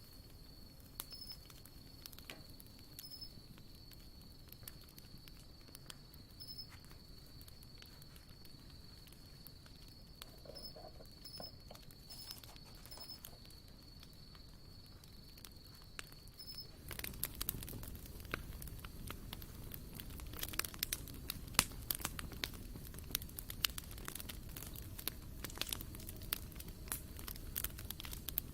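Wood campfire crackling, with scattered sharp pops over a low rush and a steady high-pitched tone in the first part. About two-thirds of the way in the fire gets louder, with a stronger rush and dense, rapid crackling.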